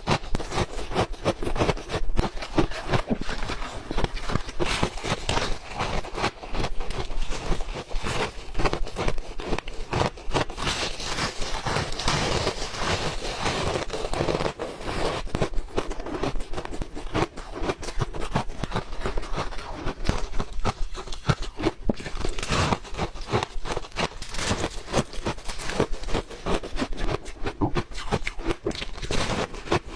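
Ice being chewed close to the microphone: a dense, continuous run of sharp crunches and crackles.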